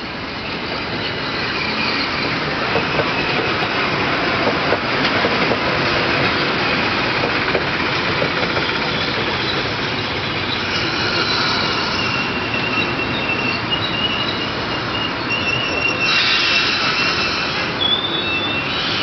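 Metro-North GE M2 electric multiple-unit train rolling past, a steady rumble of wheels on rail with a few clicks over rail joints. From about ten seconds in, thin high squeals come in as it slows, loudest about three seconds before the end.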